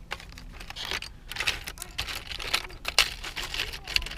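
Small metal costume jewelry pieces clinking and rattling as they are handled and sorted, a run of irregular light clicks and rustles.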